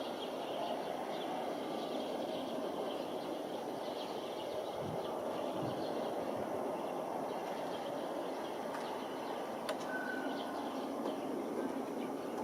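Steady outdoor rumble of background noise, with a few short bird chirps and a single sharp click partway through.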